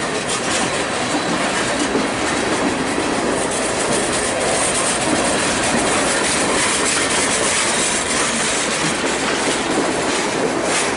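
Open-top hopper cars of a CSX freight train rolling past at close range during a yard switching move. The steel wheels rumble and click over the rail joints, with a faint high wheel squeal.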